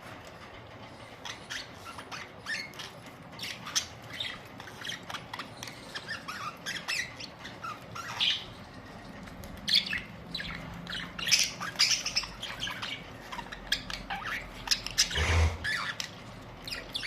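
Budgerigars chirping and chattering in short, high chirps and squawks, sparse at first and busier from about nine seconds in.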